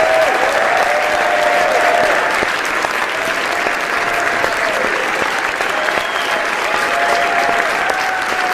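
Large audience applauding steadily, a dense continuous clapping, with cheers and shouts held above it.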